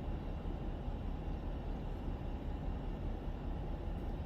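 Steady low rumble of a Ford diesel pickup truck heard from inside the cab while driving: engine and road noise with no distinct events.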